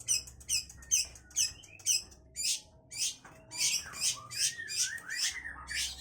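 Long-tailed shrike (cendet) singing vigorously: short bursts of sharp, high notes about twice a second, turning into a denser, more continuous run of varied notes about three and a half seconds in. Its song is full of mimicked calls of other birds.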